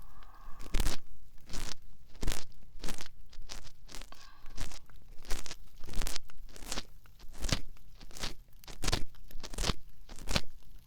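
Ear pick scraping inside a binaural dummy-head microphone's ear: a run of short, crunchy scratching strokes, irregularly spaced about one or two a second.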